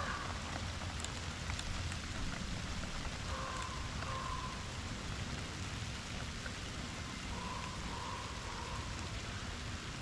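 Steady rain falling, a constant hiss with occasional sharper drop ticks.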